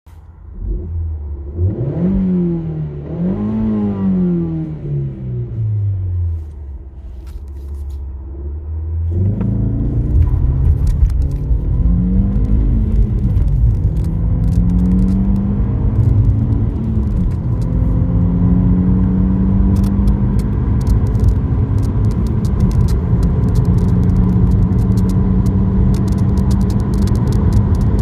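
Seat Leon Cupra's 1.8-litre turbocharged four-cylinder engine blipped twice at a standstill and settling to idle. Then it pulls away hard, rising in pitch through a few gears with a drop at each upshift, and settles to a steady cruise with heavy road rumble.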